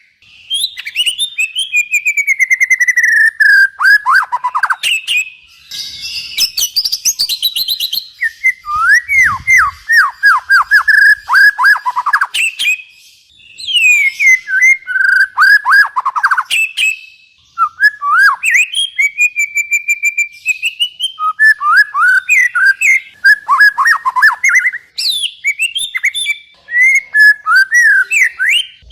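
Songbird singing a fast, varied song of loud whistled notes: runs of quick downward-sweeping notes and short trills, broken by brief pauses.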